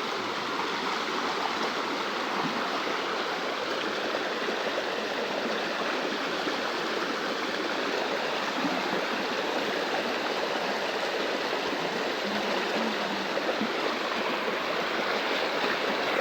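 Small stream flowing with a steady, even rush of water.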